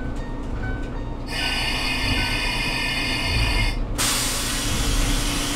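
Diesel railcar standing at a station: a faint dinging repeats, then a loud high buzzing tone sounds for about two and a half seconds, followed by a loud hiss of released compressed air.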